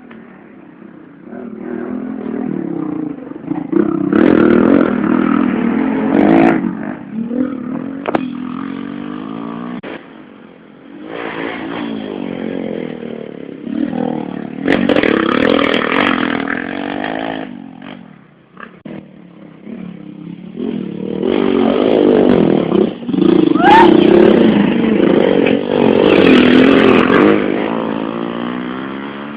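Small 110cc motorcycles racing past on a dirt and sand track, their engines revving up and down. The engine noise swells and fades three times as the bikes go by.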